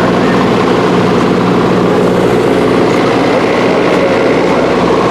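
Drag-racing truck's race engine idling loud and steady.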